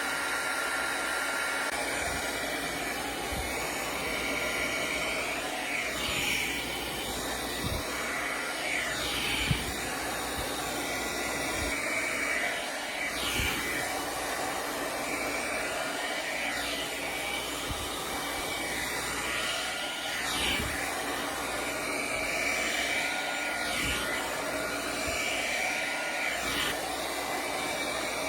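Happy Wings hair dryer brush running steadily on its middle setting (lower speed, middle heat). Its rush of air shifts now and then as the brush is worked through hair, with a brief knock about ten seconds in.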